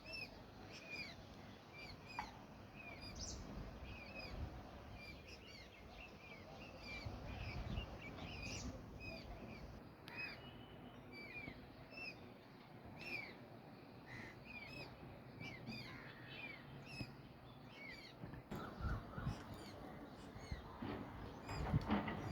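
Many small birds chirping at once: short, hooked, repeated chirps overlapping continuously, over a low rumble of background noise that grows louder near the end.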